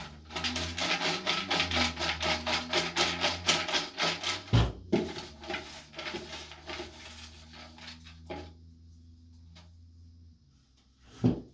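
Raffle tickets being stirred and rummaged in a container: rapid papery rustling and rubbing, several strokes a second, with a knock against the container about four and a half seconds in. It thins to occasional rustles as a ticket is picked out, and there is one more knock near the end.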